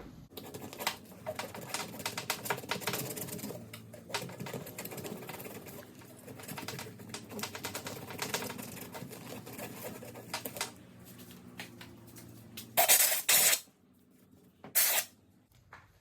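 Hand sanding with 80-grit sandpaper around a hole in a hedge trimmer's fuel tank: rapid, scratchy back-and-forth strokes for about ten seconds. Near the end come two short, loud bursts of noise and a third shortly after.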